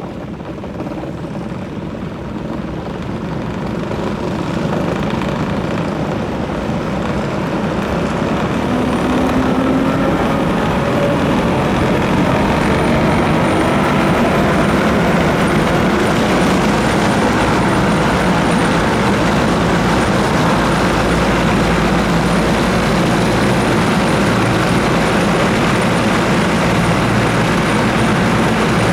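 Trieste–Opicina tram running on its rails: a steady noise of wheels and running gear that grows louder over the first ten seconds or so, then holds steady.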